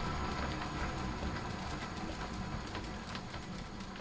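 Myford Super 7B lathe running on its inverter-driven motor, the spindle and gear train giving a steady low hum with light ticks, slowly getting quieter as it slows down.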